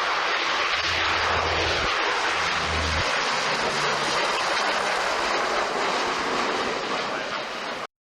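Lockheed C-130 Hercules four-engine turboprop flying past, a loud steady roar of engines and propellers. It cuts off suddenly near the end.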